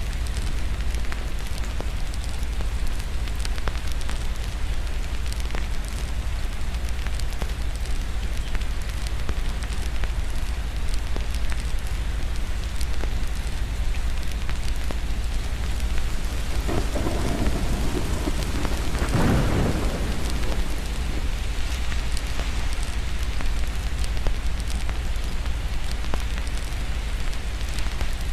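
Steady rain over a constant low rumble, with fine ticks throughout. A roll of thunder swells up about two-thirds of the way through and dies away over a few seconds.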